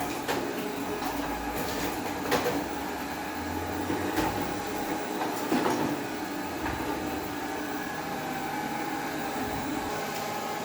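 Robot vacuum cleaner running steadily, its motor and brushes humming, with several sharp knocks and clicks along the way.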